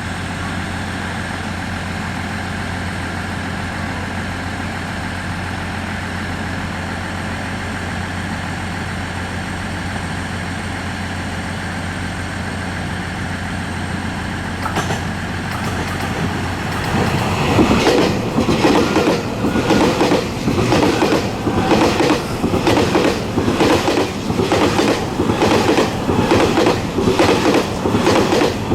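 A Hitachi-built DR3000 diesel multiple unit idles with a steady hum. From about fifteen seconds in, a passing train drowns it out: an EMU3000 electric train goes by at speed, with a loud, regular clack of wheels over the rail joints until near the end.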